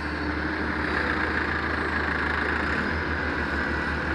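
Heavy diesel machinery engine running steadily.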